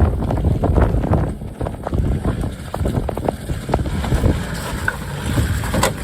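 Can-Am side-by-side driving along a rough, flooded trail: the engine and drivetrain run under heavy wind buffeting on the microphone, with frequent knocks and jolts from the rutted ground.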